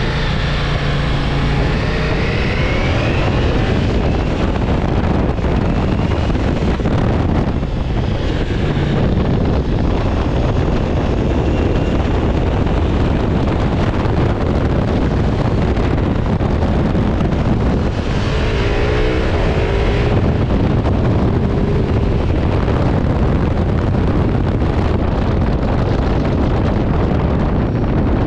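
Ducati Multistrada V4 S motorcycle on the move, its V4 engine running under heavy wind noise on the microphone. The engine pitch rises briefly near the start and again about two-thirds of the way in.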